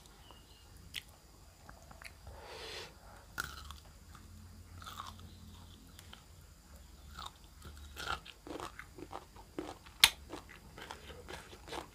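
A person biting and chewing crunchy food close to the microphone, with short crunches and wet mouth clicks. The crunches come more often in the last few seconds.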